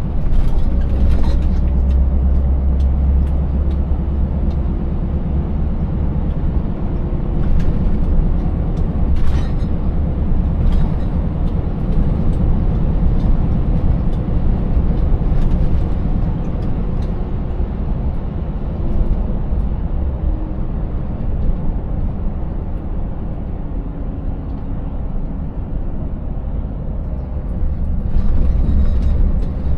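Scania 590S's V8 diesel engine running steadily under way, a deep drone with road noise. A few sharp knocks and rattles break in, several of them between about 7 and 16 seconds in.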